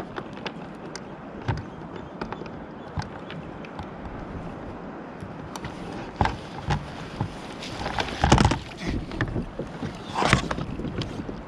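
Sea kayak being paddled through rough water: irregular paddle splashes and water slapping the hull over a steady wash of waves, with a few louder splashes in the second half.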